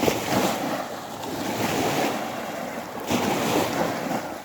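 Sea of Azov waves washing onto the shore, surging at the start and again about three seconds in, with wind rumbling on the microphone.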